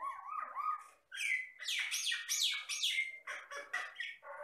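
Common myna (Jalak Batam) singing a varied, chattering run of whistles, chirps and sliding notes. The notes are lower and softer for about the first second, then louder and higher after a brief pause.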